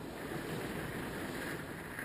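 Hurricane wind blowing steadily and buffeting the microphone, a continuous rushing noise that swells slightly about half a second in.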